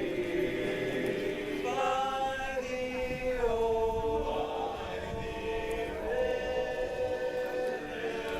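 Barbershop singers singing a cappella in close harmony, holding long sustained chords that shift a few times.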